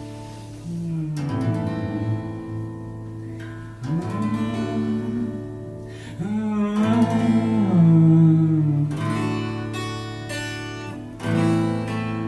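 Acoustic guitar strummed in an instrumental break of a song, with a voice singing a wordless melody over it in the middle stretch.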